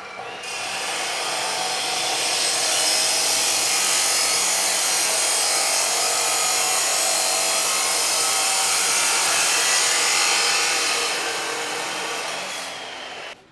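A power or air tool running steadily with a harsh, even noise, easing off a little near the end and then stopping suddenly.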